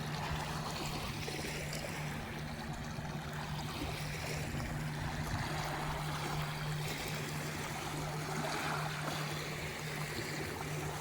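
Wake waves from a passing pontoon boat washing and lapping against a rocky river shore, with a steady low hum underneath.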